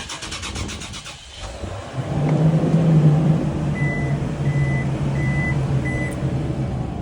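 Toyota Land Cruiser engine starting: about a second of rapid ticking, then the engine catches and settles into a steady idle. Four short, high-pitched chime beeps sound midway.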